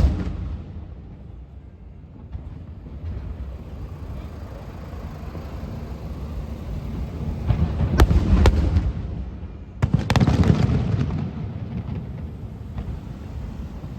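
Fireworks display: aerial shells bursting with sharp bangs, two close together about eight seconds in and another about ten seconds in, each leaving a rumbling tail that fades.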